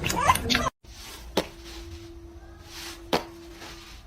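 Two sharp knocks about a second and a half apart, with a faint steady hum running between them.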